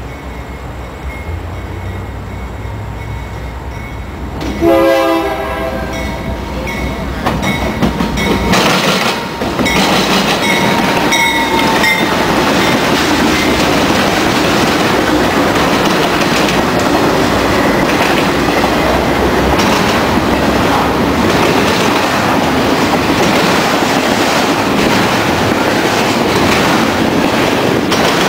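BNSF double-stack freight train led by four GE Dash-9 diesel locomotives approaching and passing close by. Its horn sounds from about four and a half seconds in. From about eight seconds the locomotives pass loudly, followed by the steady rumble of the stack cars with a rhythmic clickety-clack of wheels over the rail joints and the crossing diamond.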